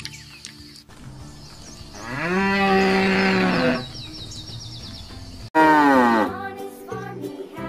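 A long animal call about two seconds in, rising and then held for nearly two seconds. A cow then moos briefly near the end with a falling pitch. Light background music plays underneath.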